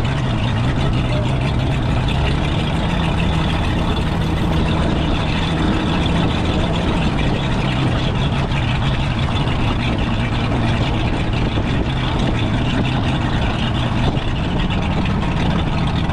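A motorboat's engine running steadily under way, with a constant drone, over a loud rush of wind and water.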